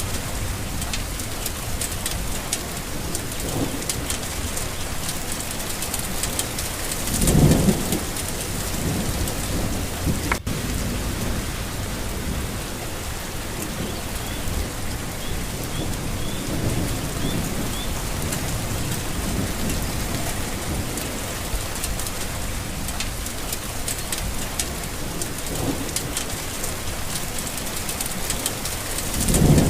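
Steady rain falling, with a low roll of thunder about seven seconds in and another near the end.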